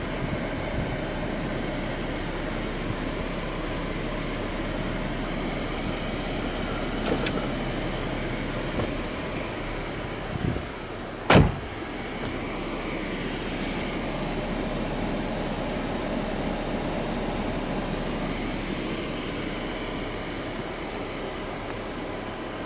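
The Jeep Wrangler's 3.6-litre V6 idling with a steady hum. A light click comes about a third of the way in, and a single sharp knock a little past the middle is the loudest sound.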